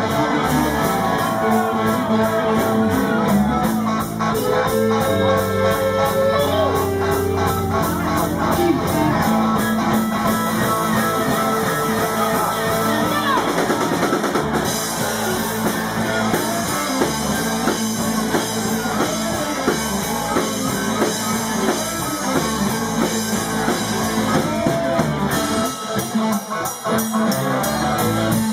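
Live blues-rock band playing an instrumental break, with electric guitar and drum kit driving a steady groove.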